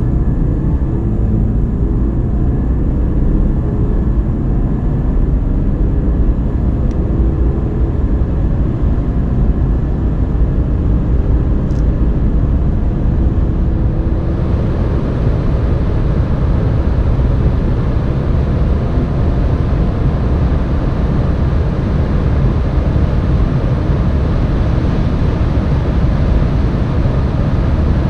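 BMW xDrive diesel car accelerating hard at high speed: a steady loud rumble of engine, tyre and wind noise, with faint engine notes rising through the gears. The high hiss steps up about halfway through.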